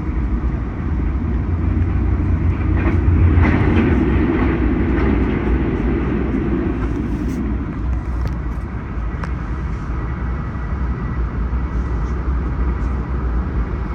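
Steady ride noise of a moving passenger train heard from inside a Bombardier LRC coach: wheels running on the rails and the car body rumbling. It swells louder about two seconds in and eases back a few seconds later.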